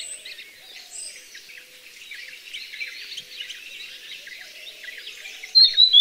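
Grey-headed canary-flycatcher singing a short, loud, high whistled phrase near the end, its notes dipping and then rising. Before that there is only faint, busy chirping from other birds.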